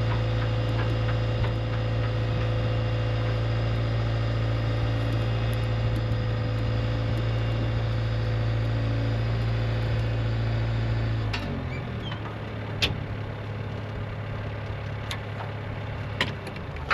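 Engine of the ranch equipment running steadily at idle, dropping to a lower, quieter speed about eleven seconds in, with a few sharp metallic clicks near the end.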